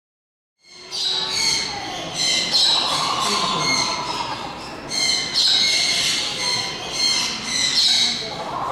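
Aviary birds calling, a dense chorus of repeated high chirps and squawks that starts abruptly about half a second in.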